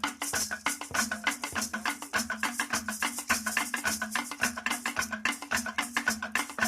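Percussion music: drums keep a fast, even pattern of strokes that shift between two pitches, over a steady shaker and clicking, wood-block-like strikes.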